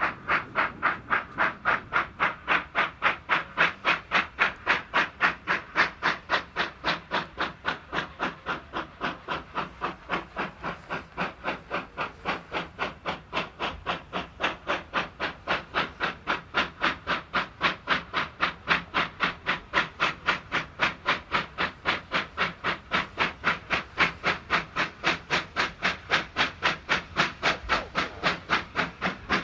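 Steam locomotive exhaust beats at a steady, even rhythm of about three chuffs a second.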